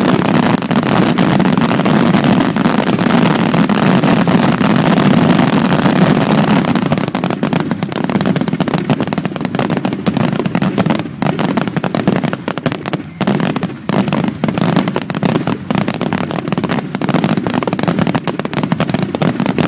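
Fireworks display: a dense, continuous barrage of bursts that turns into rapid crackling and bangs from about seven seconds in.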